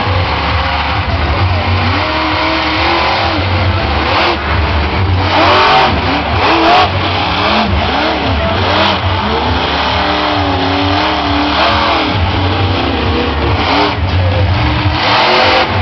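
Monster truck engine revving hard, its pitch repeatedly rising and falling.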